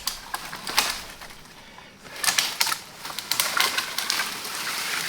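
Dry branches and brush crackling and snapping as they are handled: a run of irregular sharp cracks with rustling between them.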